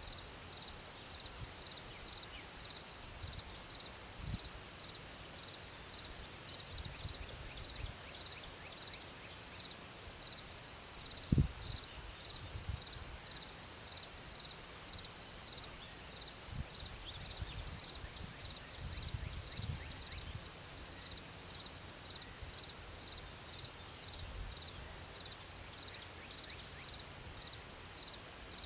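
Insects chirping in a steady chorus of high, rapidly pulsing calls, several pulses a second. Occasional low thumps sound underneath, the loudest about eleven seconds in.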